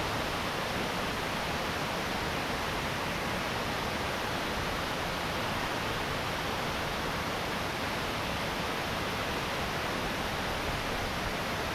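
Steady, unbroken rush of a waterfall, falling water heard as an even noise.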